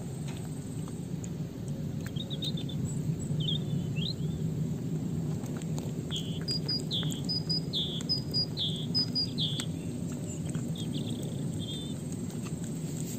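A songbird calls in a series of short high chirps, densest and loudest between about six and ten seconds in, over a steady low rumble with faint scattered ticks.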